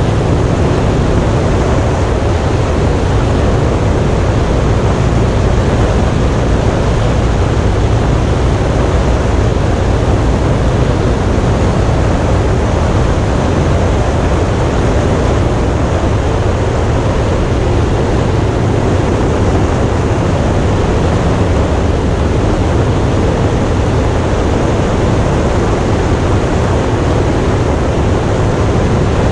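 Indian motorcycle ridden at a steady speed: a low engine hum under loud, constant wind rush over the microphone.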